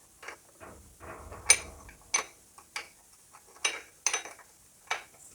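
Metal engine parts clinking and tapping by hand, about six sharp clicks, as the starter reduction gear is fitted into place against the flywheel and starter motor.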